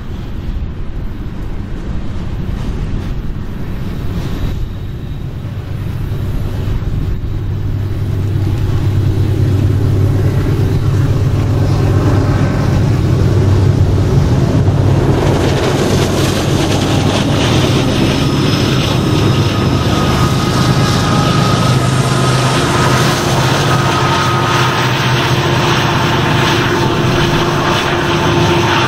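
Loaded coal train rolling past, its steel wheels rumbling on the rails. The diesel engines of the BNSF locomotives at the train's rear grow louder from about eight seconds in, adding a steady engine hum with whining tones.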